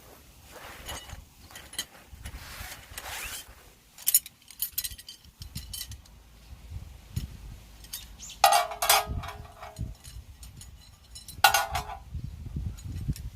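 Metal cookware and utensils clinking and clattering, with two louder ringing clanks about eight and a half and eleven and a half seconds in.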